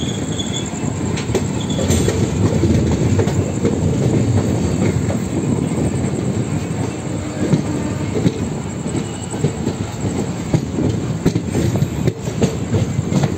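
Karimnagar–Tirupati Superfast Express passenger train running into a station, heard from the open door of one of its coaches: a steady rumble of wheels on rail with many sharp clacks as the wheels cross rail joints and points. A faint, brief wheel squeal comes near the start.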